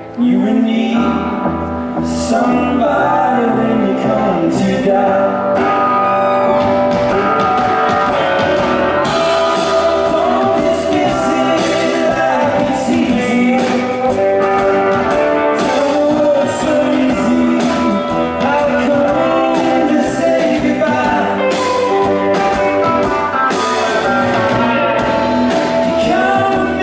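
Live music: a band playing a song, with singing.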